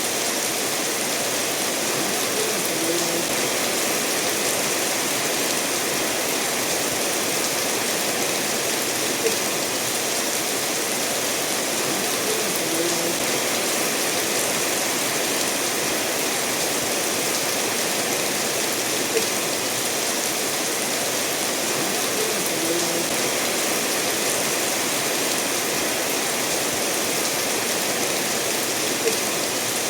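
Steady rainfall mixed with a stream of water running over stones, an even wash of noise, with a brief soft plink about every ten seconds.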